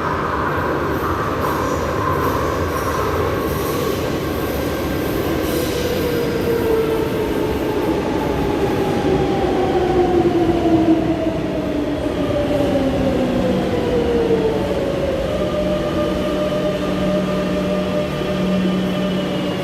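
Madrid Metro train slowing down: the whine of its traction motors falls steadily in pitch over the running noise of wheels on rail, then gives way to a steady hum as it nears a stop.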